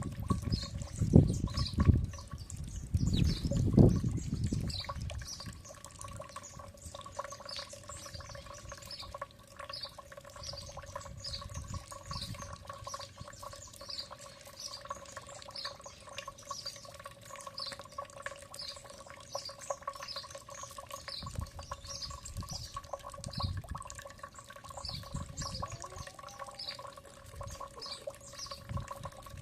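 A bird repeating a short high chirp about once a second, over a steady low hum. Low rumbling in the first four seconds.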